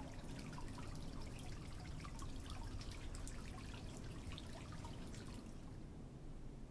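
Water dripping: many small, scattered drops plinking irregularly, dying away about five and a half seconds in.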